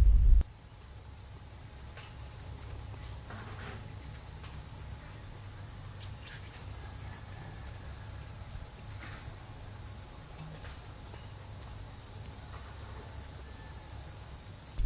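Steady, high-pitched buzzing of insects, crickets or cicadas, starting suddenly about half a second in and growing slowly louder, with a few faint ticks beneath it.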